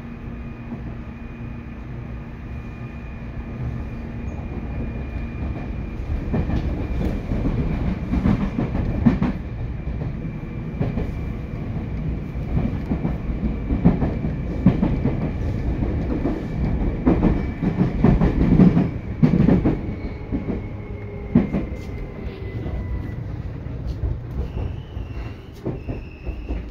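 Seibu 2000 series electric train running: a steady rumble of wheels on rail that grows louder and rougher about six seconds in, with uneven clatter over the track. A thin high whine runs above it, sliding down and fading a little past twenty seconds in, and short high squeals come near the end.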